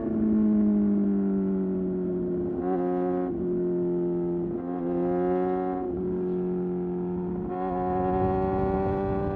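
Suzuki GSX-R750's inline-four engine running steadily at high revs, its pitch slowly sinking, with the throttle rolled on three times so the exhaust note turns brighter and louder for a second or so each time.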